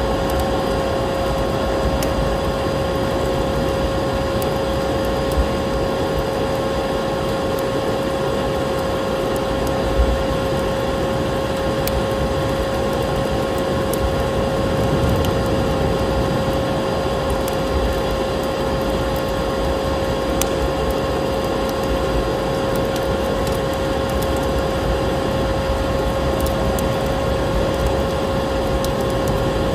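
Vacuum cleaner motor running steadily with a constant whine, layered over a crackling wood fire with scattered pops, a sharper one about five seconds in and a louder one about ten seconds in.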